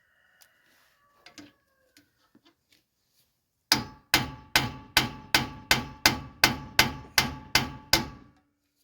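A hammer striking a bearing installer tool about a dozen times in a steady rhythm, close to three blows a second, with a short metallic ring after each one. It is driving a tight-fitting axle bearing into the axle tube of a Chrysler 9.25 rear axle housing. A few light metal clicks come first, as the tool is set.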